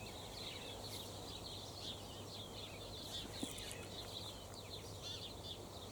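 Small birds chirping and twittering steadily in the background, many short quick calls overlapping, with a faint low steady hum underneath.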